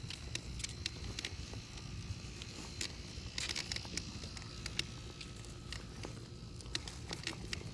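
Footsteps with light crunching and scattered clicks over a low, steady rumble, with a denser run of clicks about three and a half seconds in.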